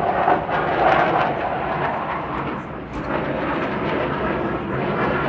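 Eurofighter Typhoon's twin EJ200 jet engines: loud, ragged, crackling jet noise from a display pass, dipping briefly about three seconds in.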